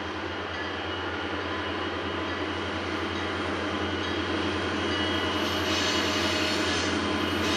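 GE U23B diesel-electric locomotive with its 12-cylinder engine running, a steady drone that grows gradually louder.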